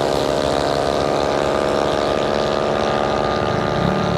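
Racing CVT scooter engines at full throttle during a drag run, holding one steady, high note.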